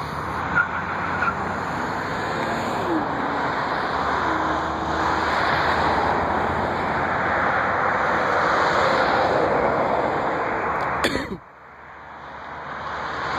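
Steady rushing engine noise that slowly swells, with a click and an abrupt drop about eleven seconds in, then builds up again.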